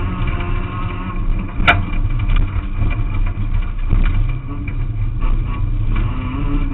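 Renault Clio autocross car's engine running hard under load, heard from inside the cabin over a heavy low rumble, with one sharp click about two seconds in. The engine note climbs in the second half.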